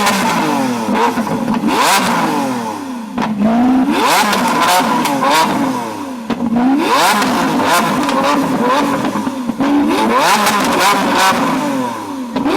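Lamborghini Aventador LP700-4's V12 engine being revved again and again, each rev rising sharply in pitch and falling back.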